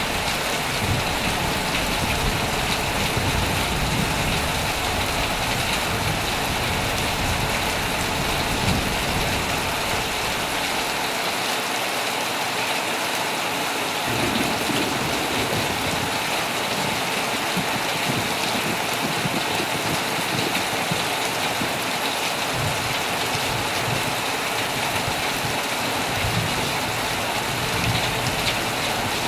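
Heavy rain drumming steadily on a tent's fabric, with a low rumble underneath that comes and goes and drops away for a few seconds midway.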